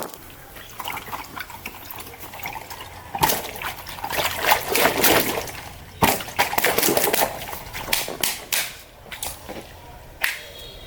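Water splashing and sloshing, with sharp spattering surges about three seconds in and again about six seconds in.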